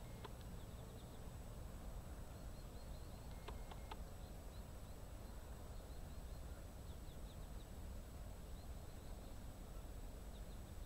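Quiet riverside ambience: a low steady rumble with faint high bird chirps repeating throughout, and a few soft clicks near the start and about three and a half seconds in.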